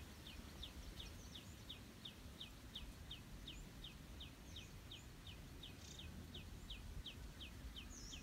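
Faint outdoor birdsong: a steady run of short, high, falling chirps about three a second, with a few higher separate calls now and then.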